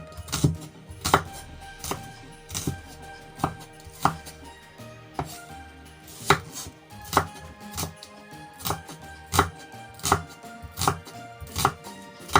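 Kitchen knife chopping on a cutting board in slow, even single strokes, roughly one every three-quarters of a second.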